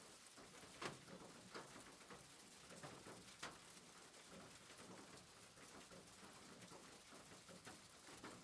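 Faint rain on a rooftop: a steady soft hiss with scattered drops tapping, a few louder ones about a second in and again about three and a half seconds in.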